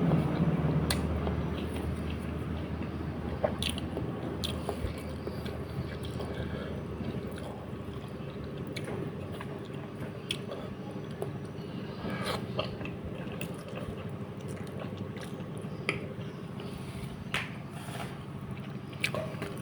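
Close-up eating sounds: chewing and mouth smacks on soft, fatty fish head, with scattered small clicks over a steady low hum.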